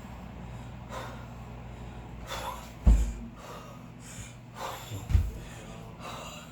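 A person breathing hard in quick, forceful breaths, the recovery breathing of a kettlebell lifter. Two short low thumps come about three and five seconds in.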